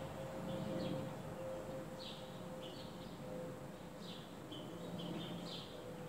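Small songbirds chirping: short, high chirps and quick down-slurred notes repeating every second or so, over a faint steady hum.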